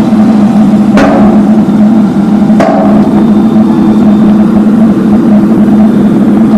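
Road-works machinery running loud and close, a steady pulsing drone, with two sharp knocks about one and two and a half seconds in.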